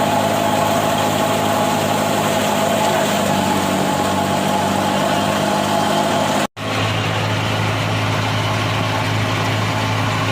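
Heavy farm machinery engine running steadily. The sound breaks off for an instant about six and a half seconds in and picks up again with a deeper hum.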